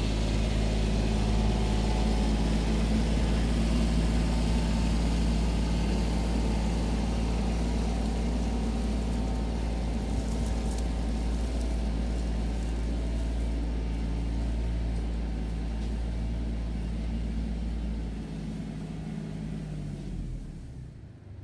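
Kubota L3830 tractor's diesel engine running steadily at an even pitch, fading off over the last few seconds.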